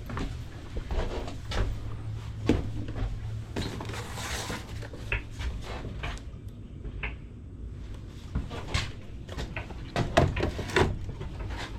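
Scattered clicks, knocks and rattles of gear being handled, with a low steady hum over the first four seconds.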